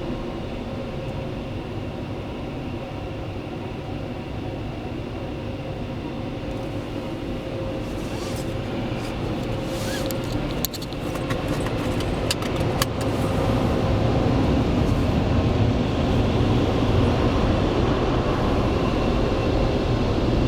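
Automatic car wash machine running with a steady mechanical noise, with a string of sharp clicks and knocks in the middle, after which the noise grows louder.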